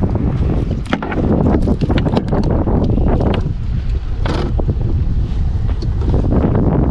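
Wind buffeting the microphone with a steady low rumble, with scattered sharp taps and clicks over it.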